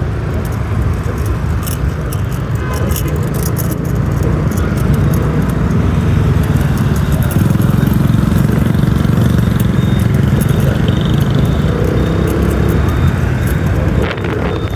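Motorbike riding through city traffic: a steady low engine and road rumble with wind buffeting on the microphone, and other traffic around.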